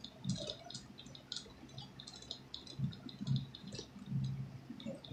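Close-up wet chewing and lip-smacking while eating a cheese-stuffed mozzarella croissant: quick, irregular sticky clicks with a few soft low thuds.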